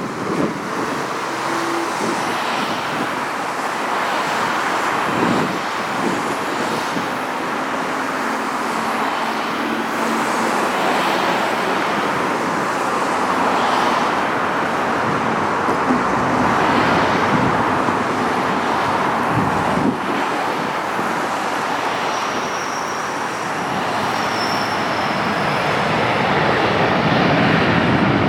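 Boeing 737-800 taking off, its CFM56 jet engines at takeoff power: a steady rushing jet noise that grows slightly louder near the end.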